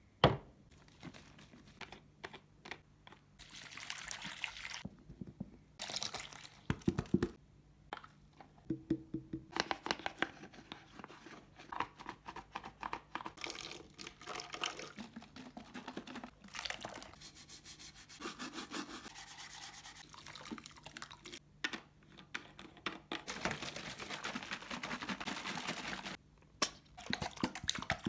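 Liquid being poured from one bottle into another in several stretches, between which the plastic bottles and caps are handled with many small clicks and taps.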